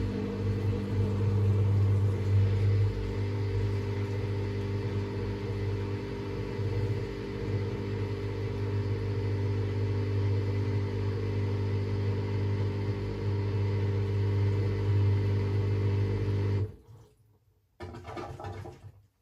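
AEG Lavamat washing machine running, a steady low hum with a rumble at an unchanging pitch. It stops abruptly near the end, followed by a brief fainter noise.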